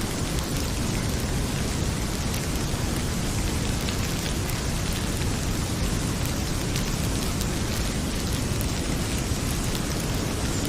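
Heavy rain pouring steadily with a low rumble beneath, mixed with a wood fire crackling in a fireplace as scattered sharp little pops.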